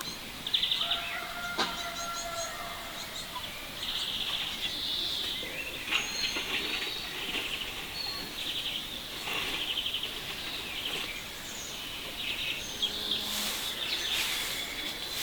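Outdoor farmyard ambience: small birds chirping and trilling in quick bursts throughout, with a chicken call in the first couple of seconds.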